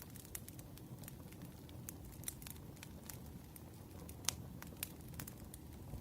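Wood fire crackling, with irregular sharp pops over a low rumble and one louder pop a little past the middle.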